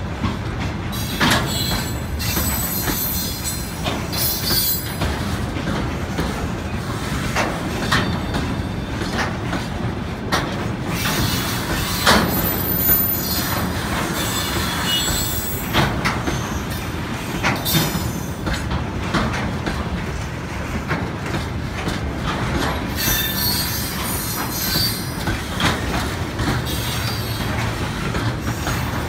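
Railway wagons rolling past, wheels clicking over rail joints, with high-pitched wheel squeal that comes and goes.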